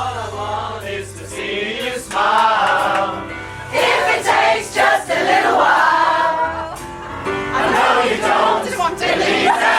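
A pop choir singing together, many voices on sustained and gliding notes over a low backing note.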